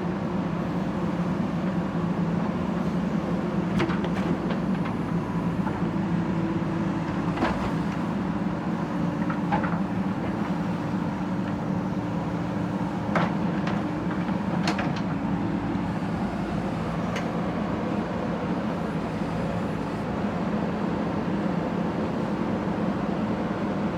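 Backhoe loader's diesel engine running steadily, with a few sharp metallic knocks in the middle stretch.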